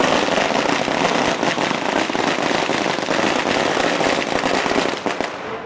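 A long string of firecrackers going off in one continuous rapid crackle of pops, cutting off about five seconds in.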